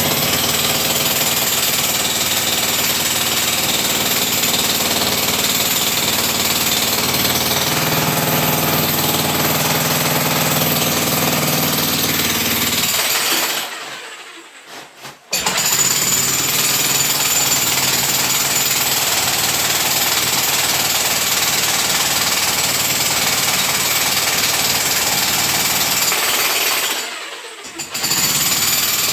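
Electric demolition hammer breaking up a fireplace, hammering continuously, with two short pauses: one about halfway through and one near the end.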